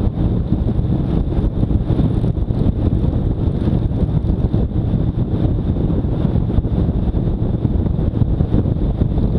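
Wind buffeting the microphone of a moving motorcycle: a steady, loud, fluttering rush.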